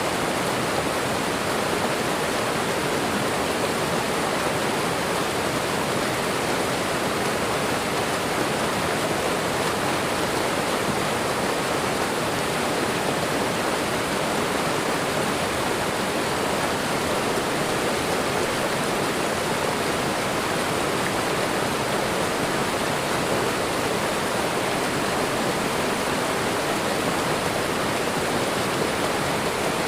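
Waterfall and running water: a steady, unbroken rush of falling water.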